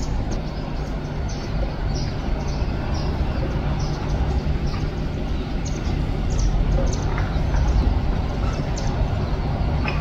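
Birds chirping in short, high notes, many times over, above a steady low rumble.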